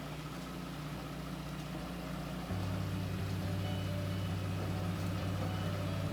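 Car engine idling with a steady low hum that gets louder about two and a half seconds in.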